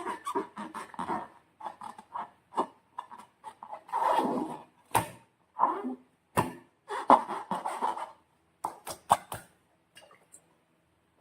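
Slime being squished and stretched by hand: irregular wet squelching and sticky crackles with several sharp clicks, dying away near the end.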